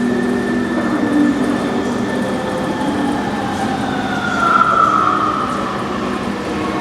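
VAL automatic rubber-tyred metro train running, its electric traction drive whining in several tones that fall slowly in pitch as it slows, loudest about four to five seconds in.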